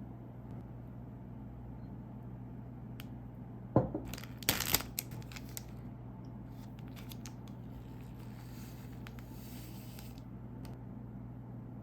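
A sharp tap, then a plastic snack wrapper being opened with a quick burst of crackling and tearing about four seconds in, followed by a few faint crinkles. A steady low hum runs underneath.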